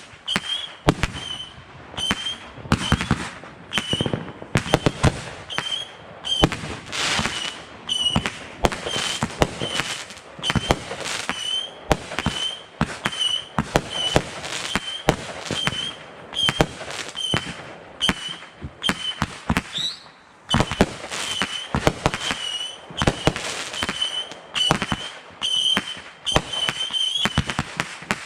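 Fireworks going off in a continuous, irregular string of sharp bangs and pops, roughly two a second, with a brief lull about twenty seconds in. A short high chirp sounds with many of the bangs.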